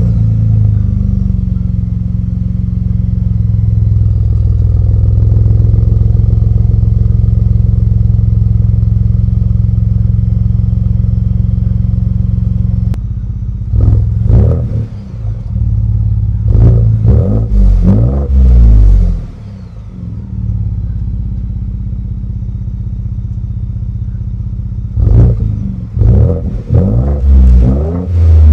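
Ford Bronco engine running through a new AWE 0FG catback exhaust: a steady raised idle just after start-up, which drops about halfway through. It is then blipped in short revs, a single one, then a cluster of several, and another cluster near the end.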